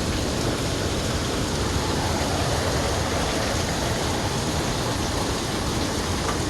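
Heavy rain pouring steadily during a thunderstorm: a dense, even hiss with no thunder claps.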